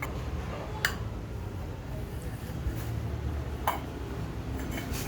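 A few sharp metallic clicks from turbocharger parts and hand tools being handled on the bench, one about a second in and another near four seconds, over a steady low hum.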